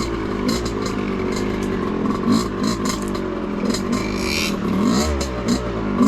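Two-stroke dirt bike engine running and revving unevenly, its pitch rising and falling as the throttle is worked, with scattered short clicks and knocks.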